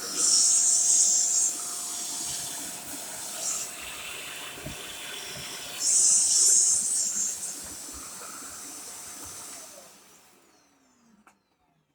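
Shark corded anti-hair-wrap vacuum cleaner running, a steady motor whine under a rush of air, with two short louder surges of high hiss. Near the end it is switched off: the whine slides down in pitch and the sound fades away as the motor spins down.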